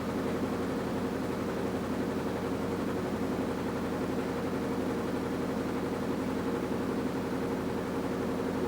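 AQUA washing machine with a direct-drive inverter motor running steadily: a constant motor hum with a few steady tones over a rushing noise, with no breaks or changes.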